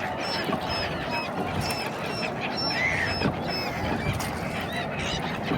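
A flock of migratory birds calling: many short calls repeating and overlapping over a steady background hubbub.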